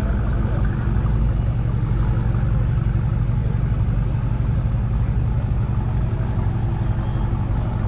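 A car engine idling steadily with a deep, even exhaust note.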